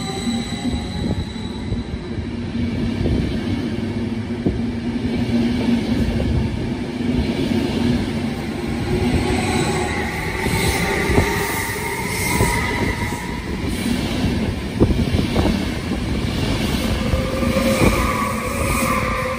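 Double-deck electric passenger train running past along the platform: a steady rolling rumble of wheels on rails with held high squealing tones and a few sharp clicks toward the end.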